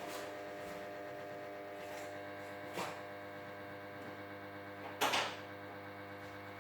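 Ariston Margherita front-loading washing machine running its main wash on a 60° cottons programme: a steady motor hum, with two brief louder swishes about three and five seconds in as the drum turns the load.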